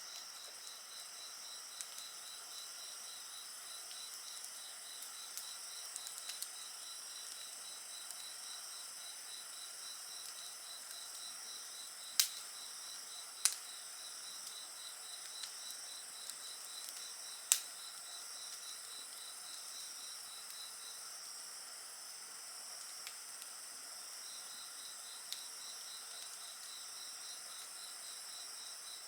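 Insects calling steadily outdoors at night, one giving a fast, even pulsed trill that drops out for a few seconds about two-thirds of the way in, over a wood fire crackling with scattered small snaps and three sharp pops near the middle.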